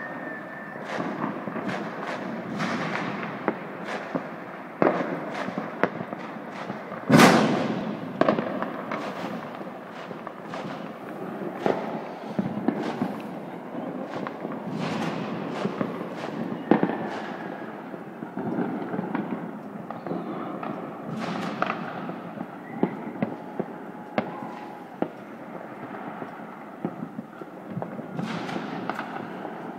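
Many fireworks going off at once, a continuous run of bangs and crackles, with one much louder bang about seven seconds in.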